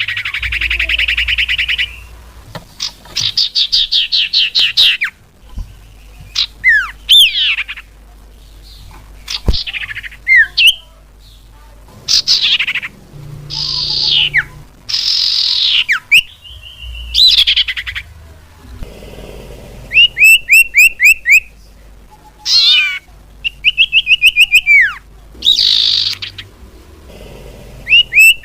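Common iora (cipoh) calling in a varied sequence of whistles, buzzy trills and quick runs of repeated chirps, about six a second, with short pauses between phrases. It is a lure-call recording used to attract the bird.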